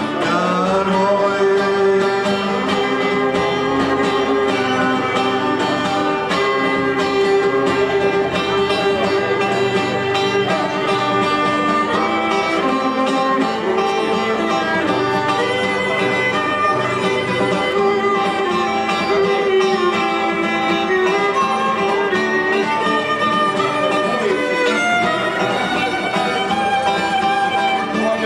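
Violin playing a melody over guitar accompaniment in an instrumental break of a folk song, after a male voice sings the last word of a line about a second in.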